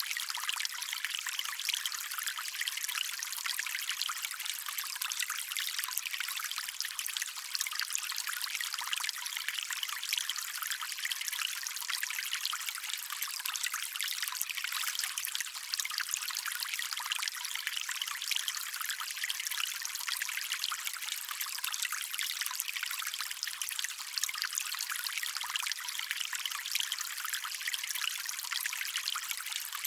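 Small stream trickling steadily over stones, a bright, constant splashing babble with little low rumble.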